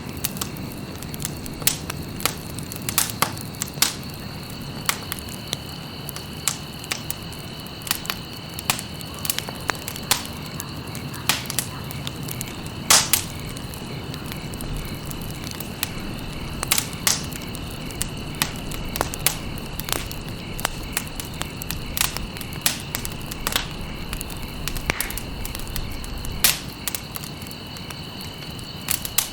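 Campfire crackling with sharp, irregular pops, one louder pop about halfway through. A steady, thin high-pitched tone runs underneath.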